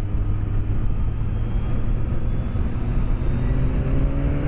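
BMW K1200S inline-four engine running on the move, with wind rush, heard through a microphone inside the rider's helmet. About three seconds in, the engine note starts rising steadily as the bike accelerates.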